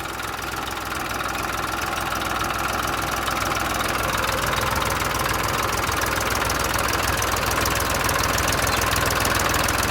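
Massey Ferguson 1035 tractor's diesel engine running under load while the stuck tractor tries to pull free. The sound builds gradually over the first few seconds, then holds steady.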